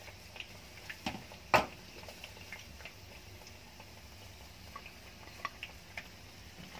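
Lamb chops frying in shallow oil in a pan: a faint steady sizzle with scattered pops and crackles, and one sharper click about a second and a half in.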